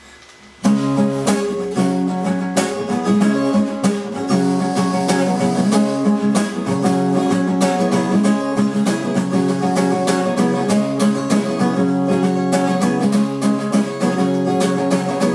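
Music led by a plucked and strummed acoustic guitar, starting suddenly about half a second in after a faint hiss.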